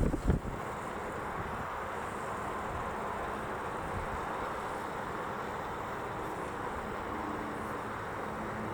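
Cessna Citation III business jet's twin turbofan engines heard as a steady, even rushing noise, with a low hum coming in near the end. A few wind thumps hit the microphone at the very start.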